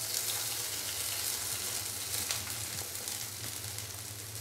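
Shredded boiled chicken sizzling in hot cooking oil in a non-stick frying pan as it is spread with a silicone spatula; a steady frying hiss.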